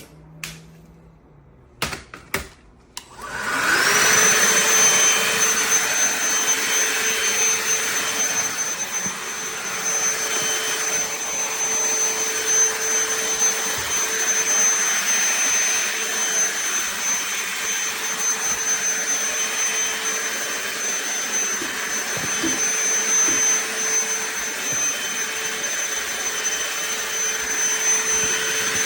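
A few sharp clicks, then a DeWalt DCV501HB 20V cordless handheld vacuum switches on about three and a half seconds in. Its motor spins up within a second to a steady high whine over the noise of the airflow, and it keeps running evenly.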